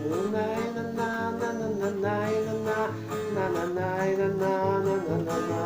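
Instrumental break in a three-chord song: an acoustic guitar strums the chords under a held melody line that slides between notes.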